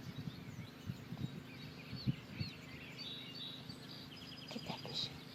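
Birds chirping faintly in the background, with a quick run of repeated notes near the end and a few soft low knocks.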